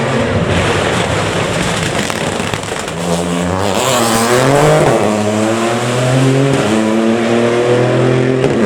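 Gravel rally car driven hard past on a special stage, engine revving high and climbing in pitch, then rising and dropping in steps through quick gear changes.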